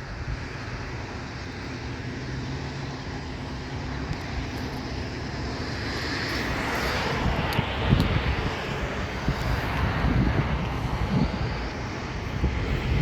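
A distant engine drone with a steady low hum, swelling slowly in loudness to a peak about two-thirds of the way in and then easing off, with low rumbles from wind on the microphone.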